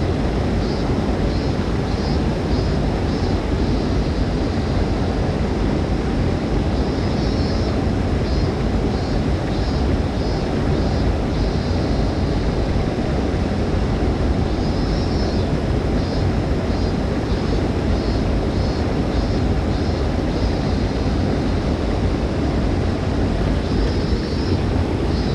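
Steady rushing of stream water, loud and unbroken. Every several seconds a series of rapid, high-pitched chirps, about four a second, repeats over it.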